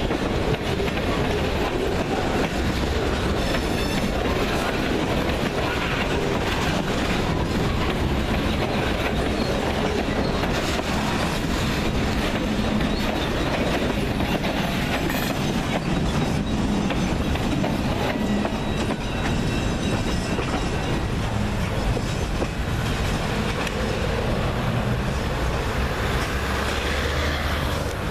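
Freight train cars rolling past close by at a steady speed, their steel wheels clattering over the rail joints.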